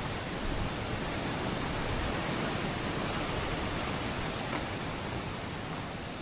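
Steady rushing of river or waterfall water, an even hiss with no distinct events.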